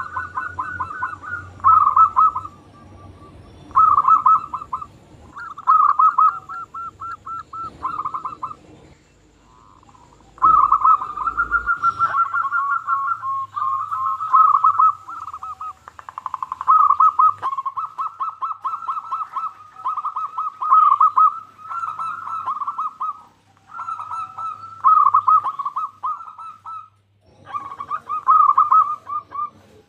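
Local zebra dove (perkutut) cooing in repeated phrases of quick, rolling notes, each phrase about a second long with short gaps between them. The phrases come almost without pause from about ten seconds in.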